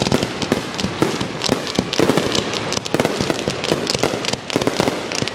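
Fireworks finale: a dense, continuous barrage of aerial shells and cake shots bursting, many sharp cracks and bangs a second with no gaps.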